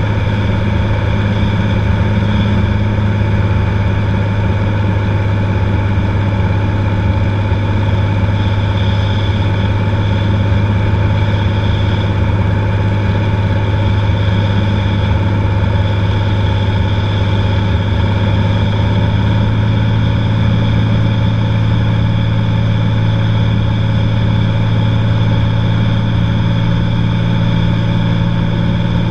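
Cessna 182's piston engine and propeller droning steadily in flight, a deep even hum that holds throughout.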